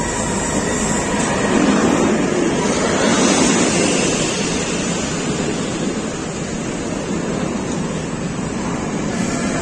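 Container freight train rolling past close by, a steady rumbling rush of steel wheels on rail that swells a little in loudness and eases.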